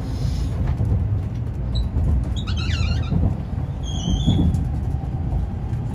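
Steady low rumble of an N700A Shinkansen running, heard inside the passenger cabin. A few short high squeaks come a couple of seconds in and again about four seconds in.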